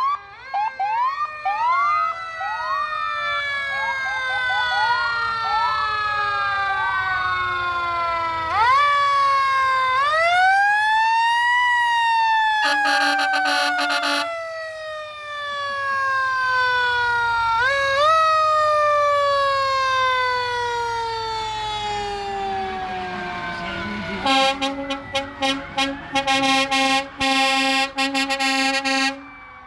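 Fire truck sirens wailing: each one rises quickly and then winds down slowly over several seconds, with a few short quick whoops early on. A steady, chord-like horn sounds once briefly in the middle and then in a rapid string of short blasts near the end.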